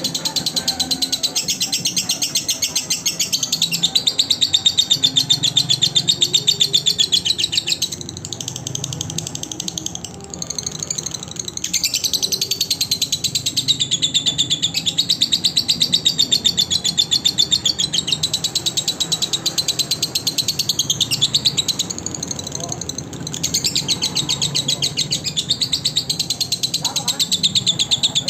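Lovebird singing a long, rapid, high-pitched chattering trill that wavers in pitch. It breaks off briefly a few times.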